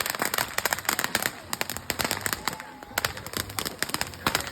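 Consumer fireworks going off, a dense, irregular crackling and popping of many small sharp reports, thinning out a little in the middle.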